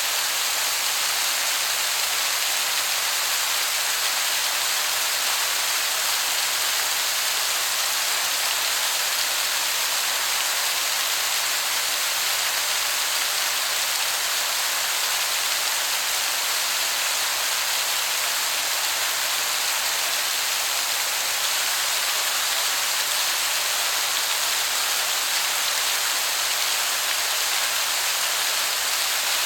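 Waterfall heard from a distance as a steady, even rush of falling water that sounds like heavy rain.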